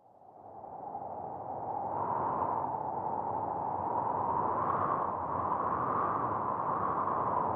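Wind blowing through a garden: a steady rushing noise with a faint whistling tone, swelling and easing slowly. It rises from quiet over the first two seconds.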